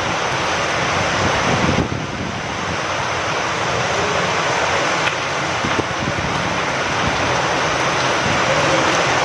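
Steady rain falling with wind, an even hiss that dips briefly about two seconds in.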